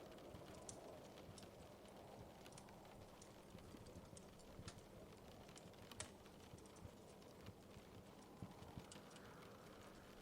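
Faint wood fire crackling: small irregular pops and snaps over a low, steady rumble of flames, with one sharper pop about six seconds in.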